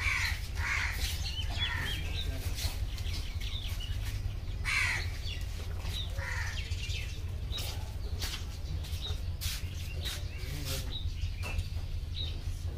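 Birds calling: short chirps and a few descending calls, over a steady low hum and scattered small clicks.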